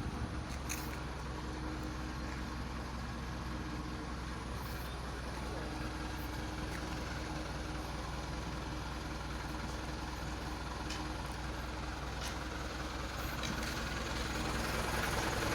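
Heavy diesel truck engine running steadily at idle, getting a little louder near the end, with a few faint clicks.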